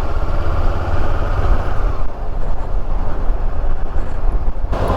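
Honda CB500X parallel-twin motorcycle under way, its engine mixed with heavy wind rumble on the rider's microphone. The wind noise eases about two seconds in, and the sound changes abruptly near the end.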